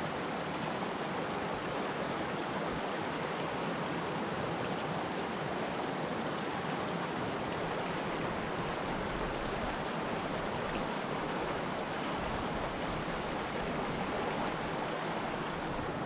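Small mountain stream rushing and burbling over rocks, a steady, even rush of water.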